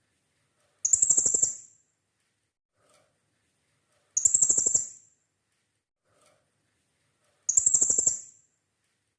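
Blue-crowned hanging parrot (serindit) calling: three high-pitched rapid trills of quick repeated notes, each just under a second long, about three seconds apart, with a faint soft note between them.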